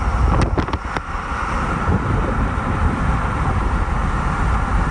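Car cabin noise while driving: the steady rumble of tyres and engine on the road, with a few brief clicks about half a second in.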